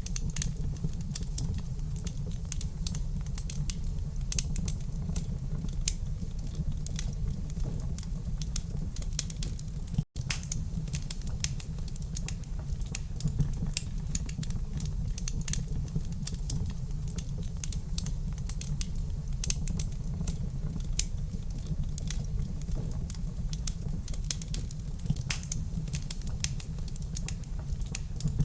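Wood fire crackling in a fireplace: many small, irregular pops and snaps over a steady low rumble. The sound cuts out for an instant about ten seconds in.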